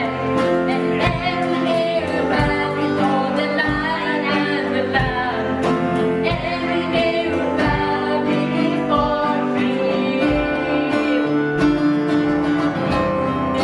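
Worship song: voices singing over a guitar-led band accompaniment.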